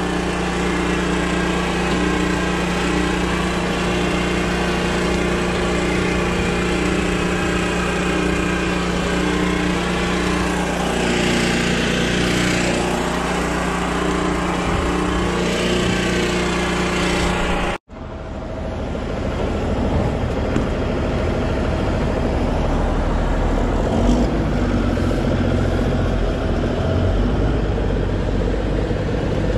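Heavy logging machine's diesel engine running steadily under load. About two-thirds of the way through the sound breaks off for an instant and comes back rougher and noisier.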